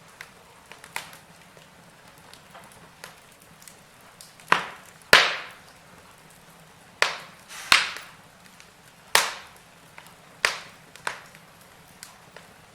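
Wood fire in a fireplace crackling, with a scatter of faint ticks and several sharp pops, the loudest two coming close together about four and a half seconds in.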